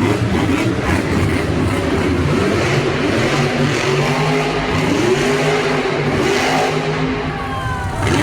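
Monster truck's supercharged V8 engine running loud in an arena, its pitch rising and falling as the throttle is worked, over a steady wash of arena noise.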